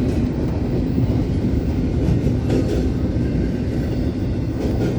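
Freight train cars rolling past with a steady heavy rumble, and a couple of sharp wheel clicks over the rail joints.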